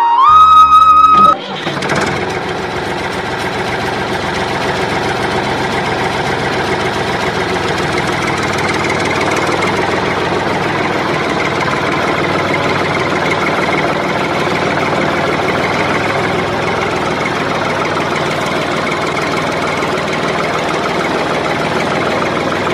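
Motor of a DIY mini tractor model running steadily without a break. Flute music cuts off about a second and a half in.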